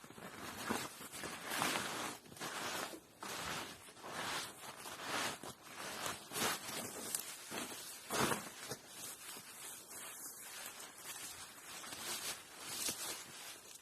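Irregular rustling, coming in uneven bursts, with a louder rustle about eight seconds in.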